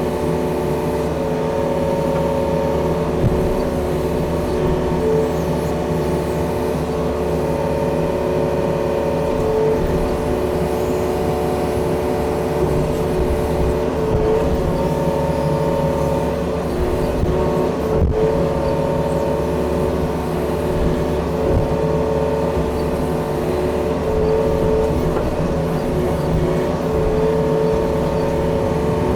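Diesel engine of a Yanmar tracked excavator running steadily under load, with a constant whine over a low rumble and a single click about two-thirds of the way through.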